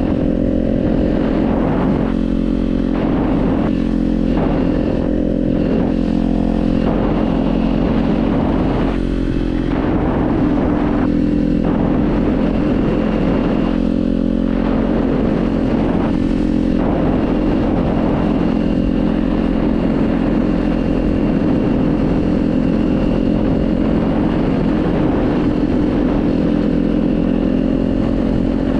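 Kawasaki Z400's 399 cc parallel-twin engine running steadily under way at a fairly even pitch, with no big revs.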